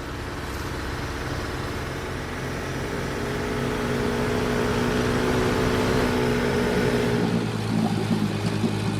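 Cartoon vehicle engine sound effect: a steady motor hum that grows gradually louder, then drops to a lower drone about seven and a half seconds in.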